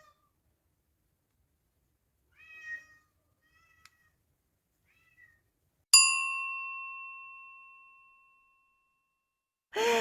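A cat meowing, a few short, quiet mews, then a single bell-like ding about six seconds in that rings out and fades over a few seconds.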